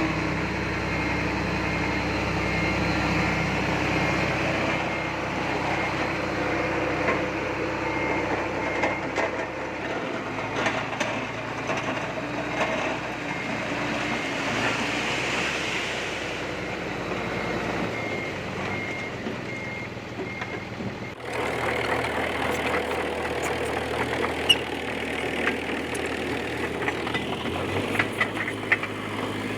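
D20P bulldozer's diesel engine running under load with clanking tracks, and a reversing alarm beeping steadily for stretches. The sound changes abruptly about two-thirds through, with sharper clanks and knocks near the end.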